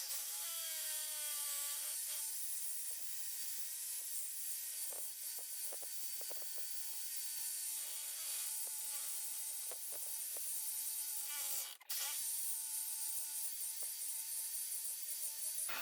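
Electric saw spinning up and cutting through a steel motorcycle fender strut, a steady motor whine with short scrapes and clicks from the blade in the metal, briefly stopping and starting again near the end.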